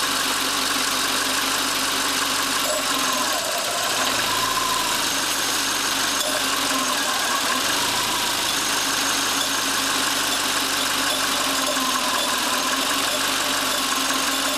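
The 2.5-litre flat-four engine of a 2000 Subaru Outback idles steadily while it sucks Sea Foam engine cleaner from a can through a vacuum-line hose. It keeps running rather than stalling on the fluid.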